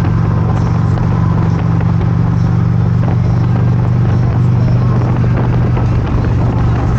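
Motorcycle engine running at a steady speed, a constant low drone with a rushing noise over it, as heard riding on the bike.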